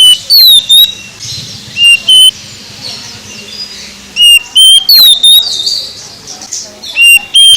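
Oriental magpie-robin (kacer) singing: loud, clear whistled notes and sharp downward-sliding whistles in short clusters, with softer twittering between them.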